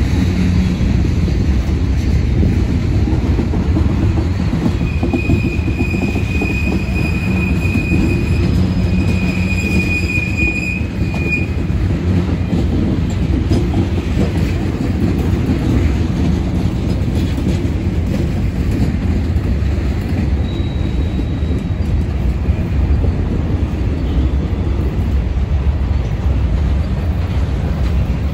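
Freight train cars rolling past at close range with a steady heavy rumble of wheels on rail. A high, steady wheel squeal rings out from about five to eleven seconds in.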